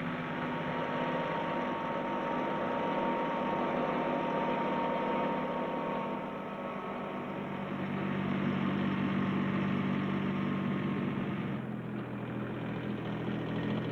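Ford 1210 compact tractor's three-cylinder diesel engine running steadily under load while subsoiling. Its low note grows stronger about halfway through.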